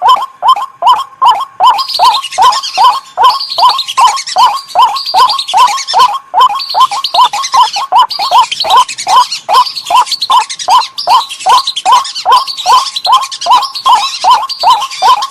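Recorded waterbird lure calls: a loud call repeated about three times a second, each note dropping in pitch, with higher, quicker chattering calls joining about two seconds in.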